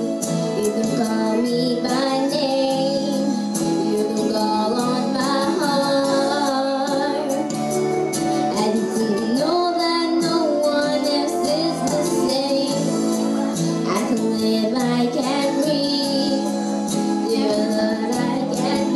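A song with a female singing voice over sustained instrumental accompaniment.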